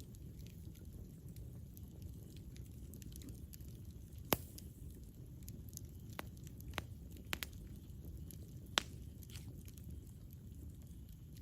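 Campfire burning with a low steady rumble, and a few sharp wood pops and crackles scattered through it, the loudest about four seconds in and again near nine seconds in.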